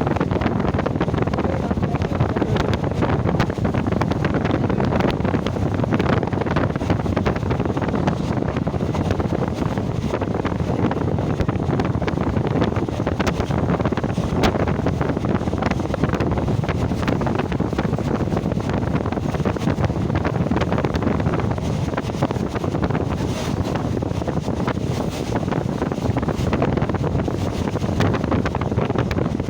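Steady wind rushing over the microphone, mixed with the continuous rumble and rattle of a moving train.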